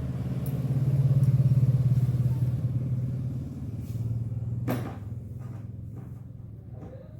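Yamaha RayZR scooter's single-cylinder engine running, getting a little louder about a second in and then easing back. A sharp click about four and a half seconds in.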